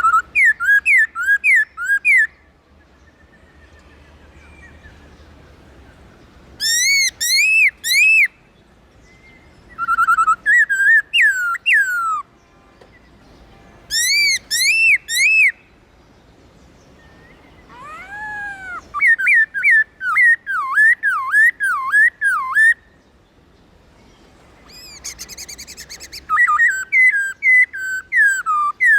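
Black-throated laughingthrush singing: loud whistled phrases of rapid, repeated rising-and-falling notes, six bursts of one to four seconds with short pauses between them.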